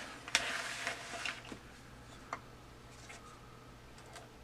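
Handling noises as a glued plastic piece is pressed down and fitted into place: a sharp click, about a second of rustling scrape, then a few faint small clicks, over a steady low hum.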